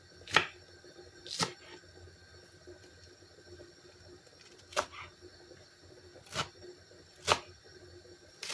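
Six short, sharp clicks, spaced unevenly one to three seconds apart, over a faint steady hum.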